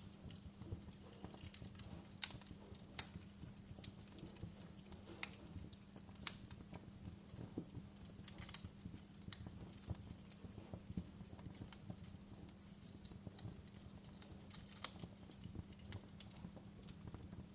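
Wood fire crackling in a fireplace: irregular sharp pops and snaps over a low steady rumble, with a few louder pops about two, three, five, six and fifteen seconds in.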